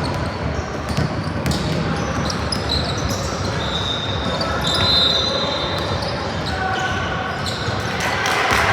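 Ball bouncing on a hard floor in a large echoing hall, with brief high squeaks and the murmur of voices around it.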